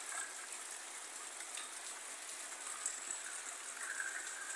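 Heavy rain falling steadily on leaves and a corrugated sheet roof, with runoff pouring off the roof edge.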